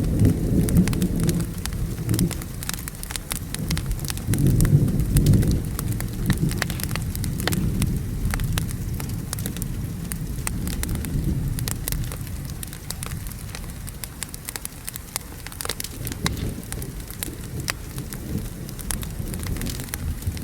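Wood fire crackling with sharp pops over steady rain. Low rolling thunder swells at the start and again about four seconds in, then eases off.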